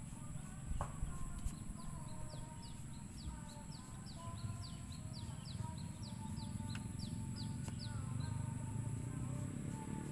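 A bird chirping in a fast run of short, high, falling notes, about three a second, for several seconds, over a steady low rumble.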